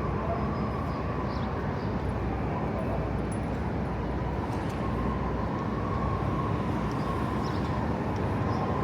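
Steady city street noise dominated by traffic, an even rumble with a faint steady whine running through it.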